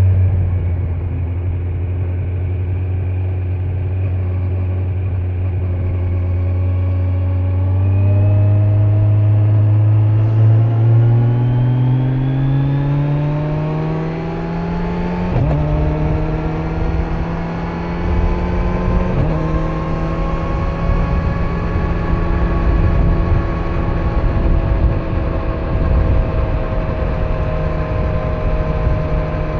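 2025 Kawasaki Z900 inline-four engine on stock exhaust, heard on the move. It runs steadily at low revs, then climbs in pitch for several seconds as the bike accelerates. Two brief breaks follow a few seconds apart, and it settles to a steady higher cruise, with wind rumble on the microphone growing as speed builds.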